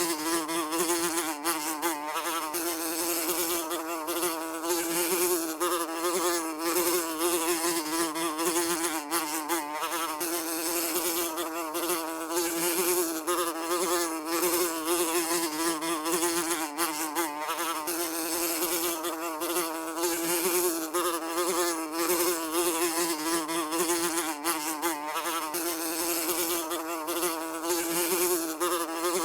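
Housefly buzzing continuously in flight, a steady wing drone with a wavering pitch that wobbles up and down as the fly moves.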